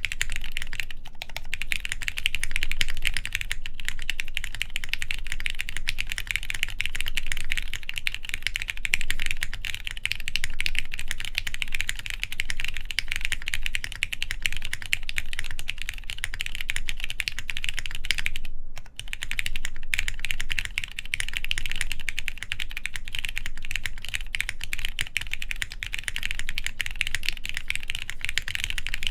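Continuous typing on a plateless mechanical keyboard fitted with lubed Cherry MX Black linear switches and PBT keycaps, a dense, steady stream of keystrokes with a brief pause about two-thirds of the way through.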